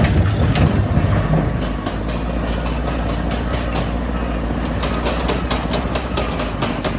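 Heavy machine's engine running, rougher for the first second or two and then settling into a steady idle. From about five seconds in, a quick, even ticking joins it, a few ticks a second.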